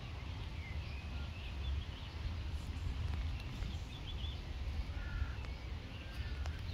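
Small birds chirping in short bursts over a steady low rumble.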